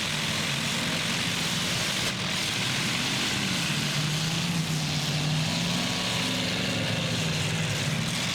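Engines of demolition derby trucks running in the arena as a steady drone, with one engine revving up and holding higher revs from about three and a half seconds in until near the end.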